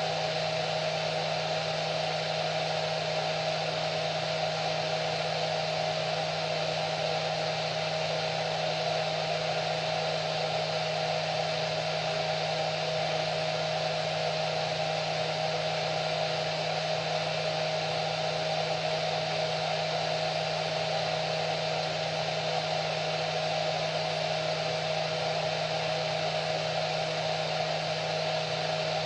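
Hair dryer running steadily: an even rushing of blown air with a constant motor whine.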